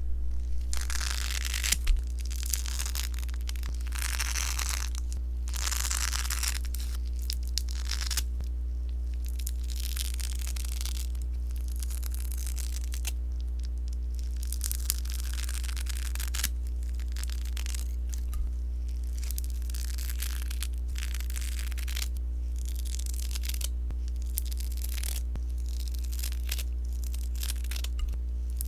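Popping sponge slime being squished and worked, giving irregular runs of crackling pops, thickest in the first few seconds and sparser later. A steady low hum lies underneath.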